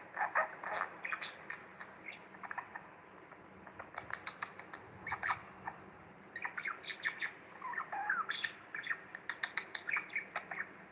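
Budgerigar chattering: quick strings of short chirps and squawks coming in bursts with short pauses between them.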